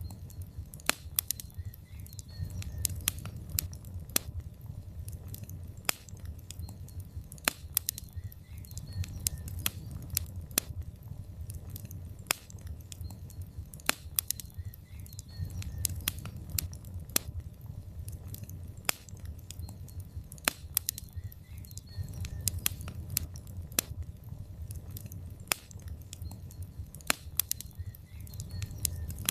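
Logs burning in a fireplace, crackling: sharp irregular pops and snaps, several a second, over a low steady rumble of the fire.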